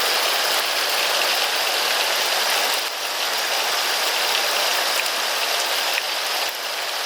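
Heavy rain falling steadily, a dense even hiss with scattered drip ticks.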